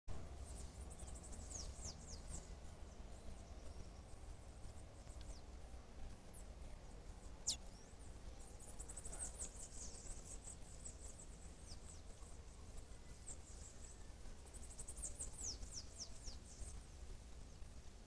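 Faint, very high-pitched wild bird calls: quick trills and short downward-sliding notes in three spells, with one sharp falling whistle about halfway through, over a low steady hum.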